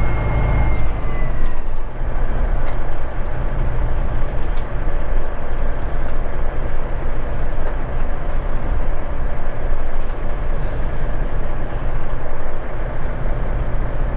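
Straight-piped Caterpillar 3406E diesel in a Kenworth W900 running steadily at light throttle as the truck drives along. A high thin whine slides down and fades out in the first two seconds.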